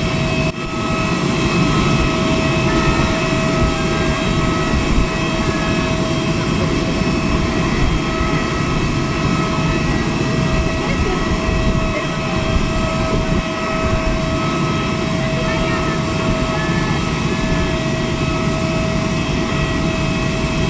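Airbus A320 jet airliner running on the ground: a steady loud rumble with a constant high-pitched whine.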